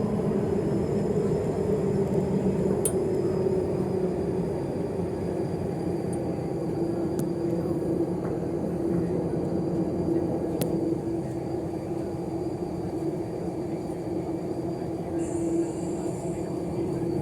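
Steady running noise inside the passenger car of an MTR East Rail Line R-train (Hyundai Rotem electric multiple unit) moving between stations: an even rumble with a steady hum and a faint high whine, and a few light ticks.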